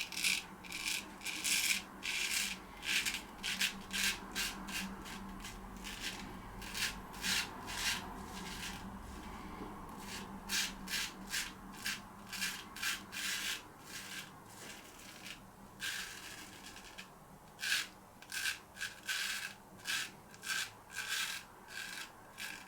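Joseph Rodgers & Sons Sheffield straight razor shaving through several days' stubble: a run of short scratchy strokes, one to two a second, with a pause about fifteen seconds in.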